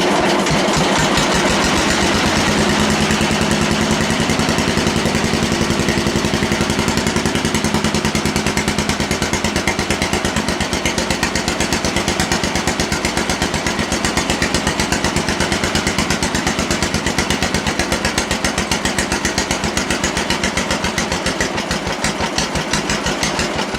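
Sears 14 garden tractor engine catching and running loud and unmuffled through a short welded stack exhaust, a rapid steady train of sharp exhaust pulses. It is running with too much choke.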